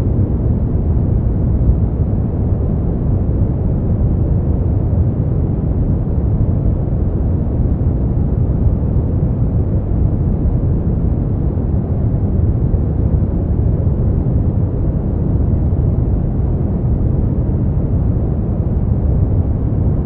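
Steady brown noise: an even, deep rumbling hiss, strongest in the bass and fading off in the treble, with no changes.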